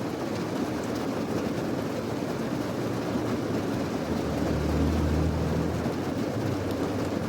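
Steady rain ambience, a dense even noise heavy in the low end, with a low rumble swelling for about a second and a half near the middle.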